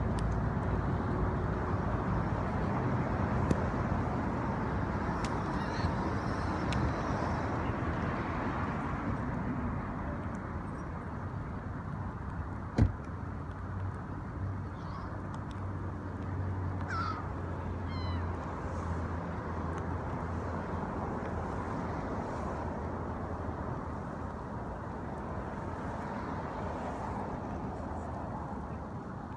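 Steady low rumble of a running vehicle engine, with a few short gull calls a little past the middle and again near the end, and one sharp click shortly before the middle.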